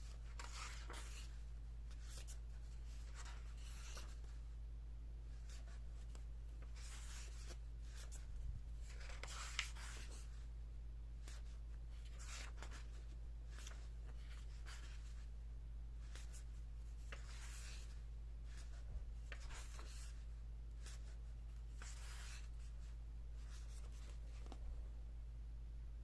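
Thick paper pages of a large hardcover picture book being handled and turned: a dozen or so soft brushing rustles a second or a few apart, with a few light knocks. A steady low electrical hum runs underneath.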